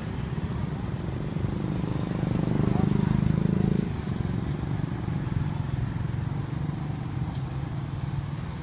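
A vehicle engine running steadily, swelling louder for a second or two about two and a half seconds in, as if passing close by.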